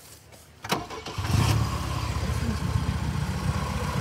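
Saab V4 engine being started: a sharp click about two-thirds of a second in, a brief crank, and it catches about a second in, settling into a steady, even idle. The exhaust is a stainless-steel system with only one silencer at the back, which the owner says makes it noisy.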